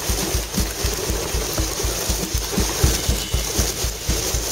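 Rushing wind and water noise from a boat ride, with rapid low thumps about five or six times a second.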